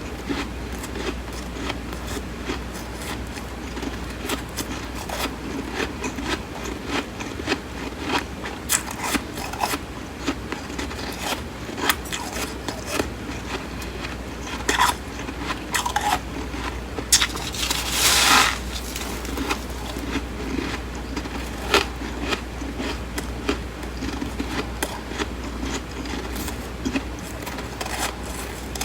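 Close-up crunching and chewing of flaky, crisp freezer frost, many small brittle crunches in a quick irregular run. About two-thirds of the way through comes one longer, louder crunching bite.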